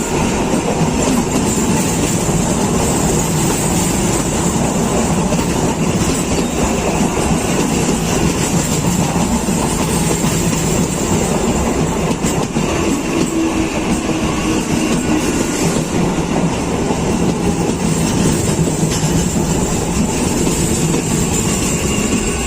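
Electric multiple unit (EMU) suburban train running at speed on the rails, a loud, steady rush of wheel and track noise.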